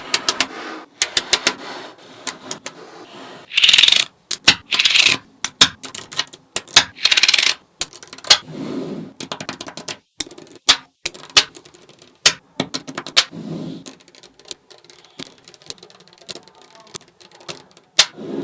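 Small magnetic balls clicking sharply as they snap together one at a time, at an uneven pace. Several short rattling bursts come from balls being shuffled or rolled against each other.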